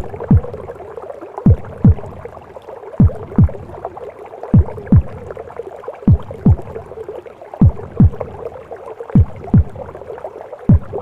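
Mother's heartbeat as heard in the womb: paired low thuds, lub-dub, about every second and a half, a slow steady rhythm. Under it runs a constant whooshing womb noise.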